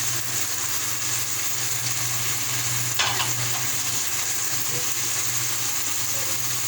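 Chicken jalfrezi sizzling in the pan as it is stirred, a steady frying hiss, with one sharp knock of the spoon against the pan about three seconds in.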